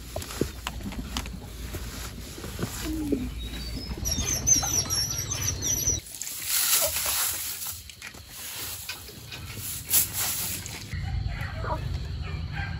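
Outdoor ambience with small birds chirping, clearest in a run of high chirps about four to six seconds in, with a few light knocks of handling.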